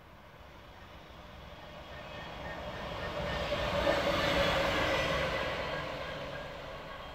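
A train passing at speed, growing louder to a peak about four to five seconds in, then fading away.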